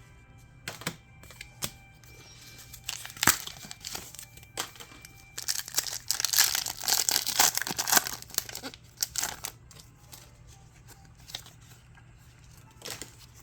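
A foil trading-card booster pack wrapper crinkled and torn open, with scattered crackles and one loud run of tearing and crinkling about six to eight seconds in. Soft background music sits under it for the first few seconds.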